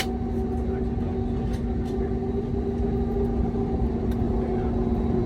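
Cabin noise inside an Airbus A321neo: its CFM LEAP-1A engines make a steady hum of several even tones over a low rumble.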